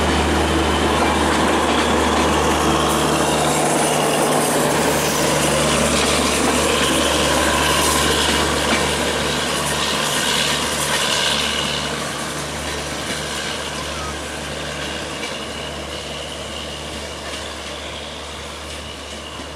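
Broad-gauge passenger train coaches rolling past on the rails, with a steady low drone from the diesel generator of the rear power car. The sound fades steadily over the second half as the tail of the train moves away.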